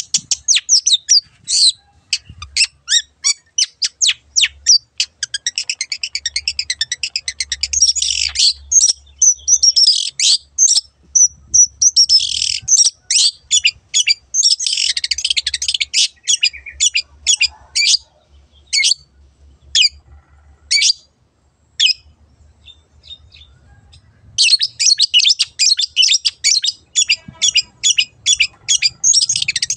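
Long-tailed shrike (cendet) singing a fast, loud run of short, sharp high notes, several a second. The song thins to a few scattered notes about 21 seconds in, then picks up densely again.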